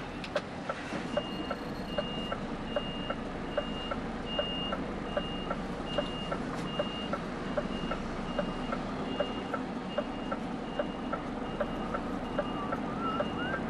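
HGV reversing alarm beeping steadily, a high tone repeating a bit more than once a second as the truck backs into a parking bay, over the low hum of the running diesel engine and a rapid, even ticking.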